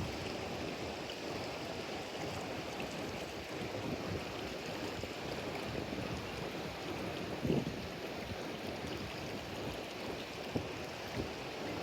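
Steady rush of moving water, with a few brief louder splashes, the clearest about seven and a half seconds in.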